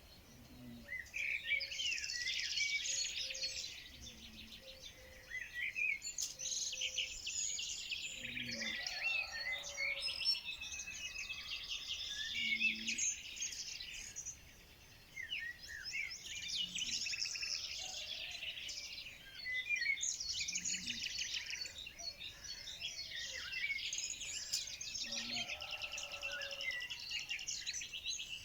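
Many songbirds singing and chirping at once, a continuous chorus of overlapping high trills and chirps with brief lulls.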